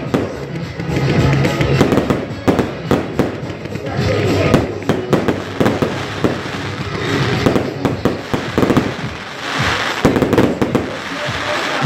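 Fireworks display: aerial shells bursting overhead in quick succession, many sharp bangs one after another.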